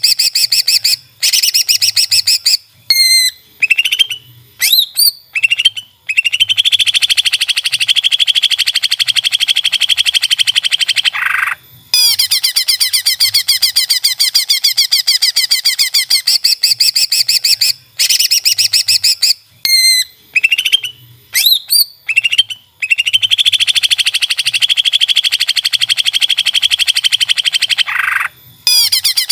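Green leafbird (cucak ijo) singing loudly: rapid high trills, a few quick whistled glides up and down, then a long buzzing trill of several seconds. The same phrase repeats about twelve seconds later, as in a looped training recording.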